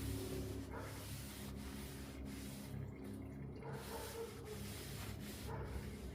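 Used motor oil from a Ford F350's engine sump streaming into a drain pan, a steady rushing splash over a low hum. The 8-quart sump nearly fills the 8-quart pan.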